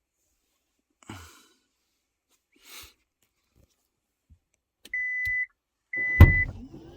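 Kia Carnival power tailgate giving two steady warning beeps about a second apart, with a heavy clunk of the latch releasing during the second beep. Before the beeps, two soft rustles of someone moving.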